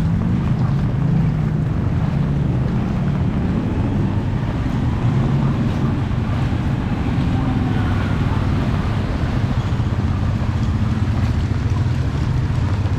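Typhoon wind buffeting the microphone in a steady low rumble over the hiss of heavy rain and water.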